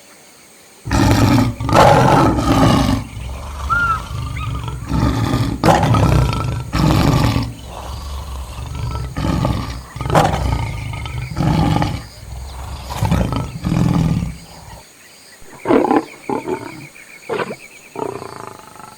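Lion roaring: after about a second, a run of loud, deep calls at about one a second, trailing off near the end into shorter, quieter grunts.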